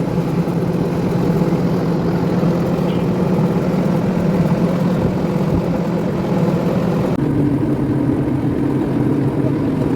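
Auto-rickshaw running along the road, heard from inside: a steady low hum over road and rattle noise, its pitch stepping higher about seven seconds in.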